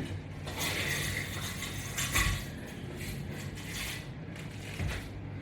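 Exercise equipment being handled and set up: rustling, with light clinks and a brief knock about two seconds in.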